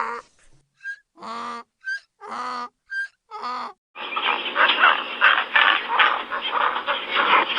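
A duck quacks three times, about a second apart, then a flock of ducks quacks together in a dense, overlapping chorus from about halfway through.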